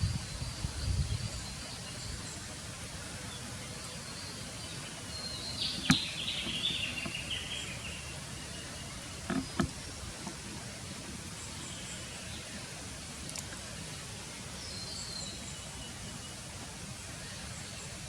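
Backyard birds calling over a steady outdoor hiss: a burst of high chirps sliding down in pitch about six seconds in, with fainter calls scattered through. Low thumps at the start, a sharp click about six seconds in and two knocks near ten seconds break in.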